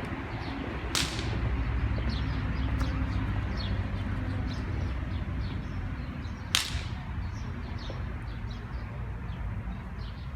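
Two sharp cracks about five and a half seconds apart, the second louder, over a steady low rumble.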